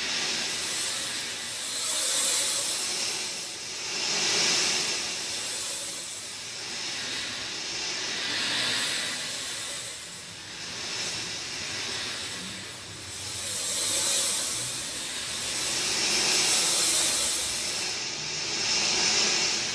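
Steady rain falling, a dense hiss that swells and eases in waves every two to three seconds.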